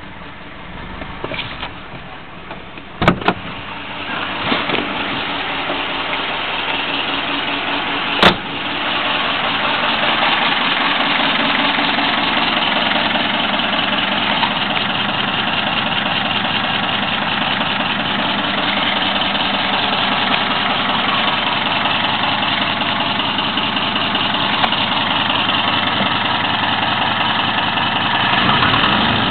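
ZMZ-402 inline-four petrol engine running. Two sharp clicks, about 3 and 8 seconds in, after which it runs louder and steady.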